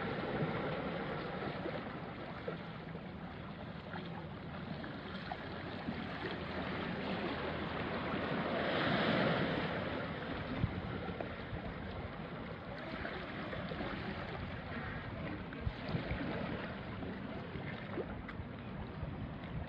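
Small waves washing onto a rocky shore, a steady wash with one larger wave swelling and receding about nine seconds in, and a few small knocks and splashes among the rocks. A light breeze on the microphone.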